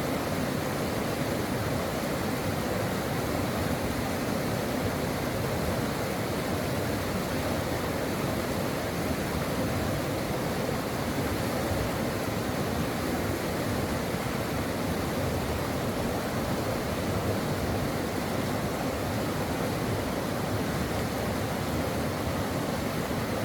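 Brook water flowing steadily over rocks, a constant rushing with no breaks.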